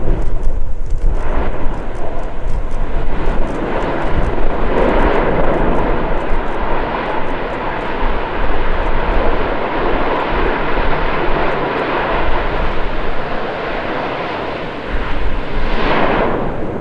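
Mount Ibu volcano erupting: a continuous loud rushing rumble that swells about five seconds in and again near the end.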